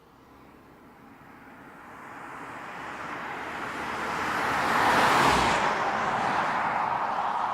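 BMW 6 Series Gran Coupe approaching and driving past: road and engine noise swells steadily, is loudest about five seconds in, then eases off slightly.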